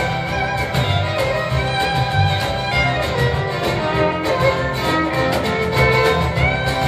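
Live band music: a wavering melody line over a steady low bass pulse and a regular beat.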